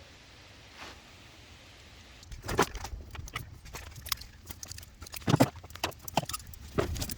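Quiet at first, then from about two seconds in a run of metal clinks and knocks, loudest twice, from hand tools and metal pipe fittings being handled while a circulator pump is bolted into place.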